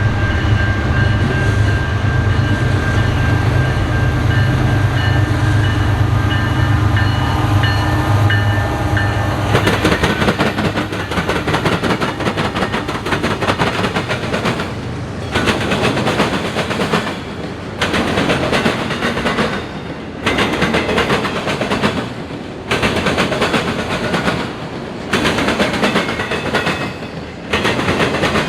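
A train passing close by: a diesel locomotive's engine drone for the first several seconds, then the cars rolling past with a rhythmic clatter of wheels on the rails that swells and dips about every two and a half seconds as each car goes by.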